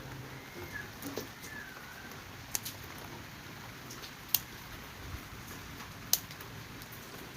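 A lull in the background music: faint steady hiss with three sharp clicks, spaced almost two seconds apart.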